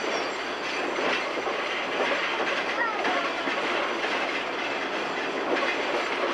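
Open-sided excursion train car rolling along the track: a steady rumble and clatter of wheels and car.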